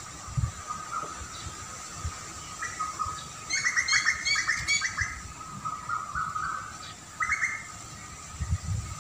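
Songbird chirping: a quick run of short, repeated chirps about three and a half seconds in, then a few shorter calls. Low, brief rumbles, like wind on the microphone, come near the start and the end.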